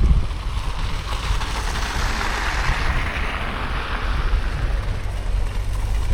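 Blizzard wind buffeting the microphone as a steady low rumble, with a hiss that swells and fades about halfway through.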